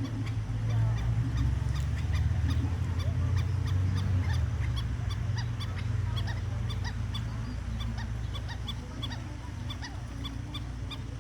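Black-necked stilts calling with short, sharp yipping notes, several a second, over a low steady rumble that fades about halfway through.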